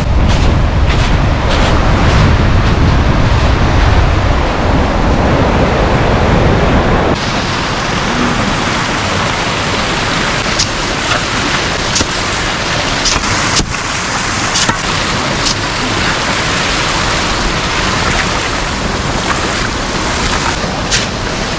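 Running brook water rushing loudly, heavy and rumbling for about the first seven seconds, then changing suddenly to a lighter, steadier rush with scattered sharp clicks and knocks.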